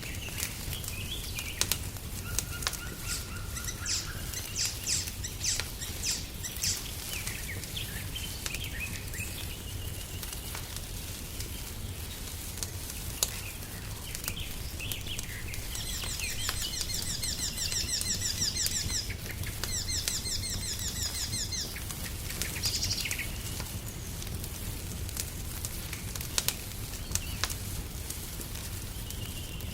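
Wood fire crackling in a fireplace: frequent sharp pops over a low steady rumble. Songbirds sing over it, with scattered chirps early on and a rapid, repeated high trill from about 16 to 21 seconds in.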